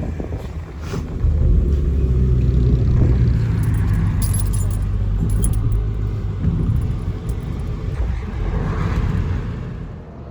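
Camper van driving, heard from inside the cabin: a steady low engine and road rumble with light rattling, easing off near the end.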